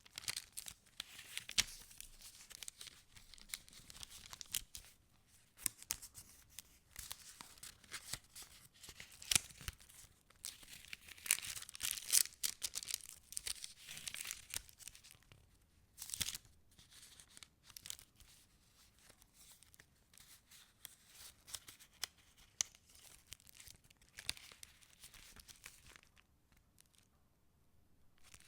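Pages of a handmade paper junk journal being turned and handled: crisp paper rustling and crinkling with many sharp snaps, thinning out and growing quieter near the end.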